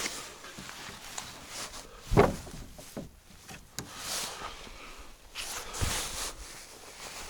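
Footsteps and the rustle of junk being carried and dumped, with a sharp heavy thud about two seconds in and a softer one near six seconds.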